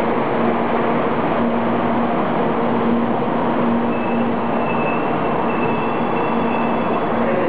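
Shinkansen bullet train rolling slowly along the platform, a steady running noise with a low hum. A faint high tone comes and goes in the second half.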